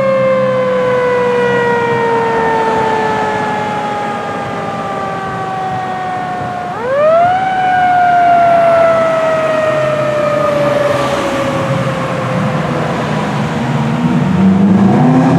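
Fire engine siren winding down in a long falling wail, spun up again about seven seconds in with a quick rise, then falling slowly once more. A heavy vehicle engine grows louder near the end.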